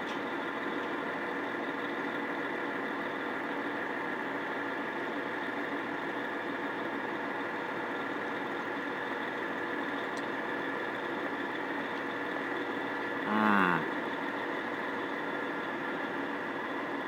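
Vehicle engine idling steadily while stopped, heard from inside the vehicle. About thirteen seconds in, a brief falling whine rises above it.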